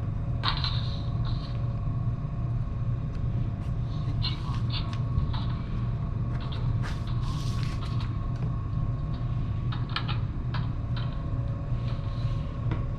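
Semi-truck diesel engine idling steadily with a low rumble, with scattered short creaks and clicks throughout.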